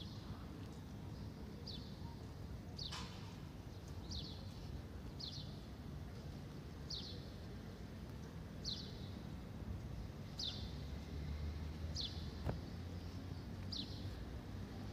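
A bird repeating a short, high, falling chirp about once every one to two seconds, over a low steady outdoor rumble.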